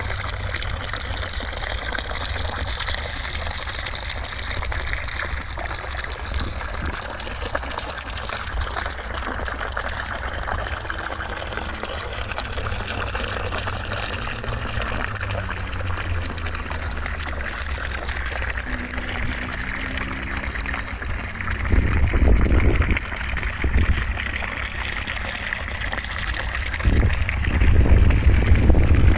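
Steady white-noise hiss with a rushing, water-like quality. Low rumbling swells come about three-quarters of the way through and again near the end.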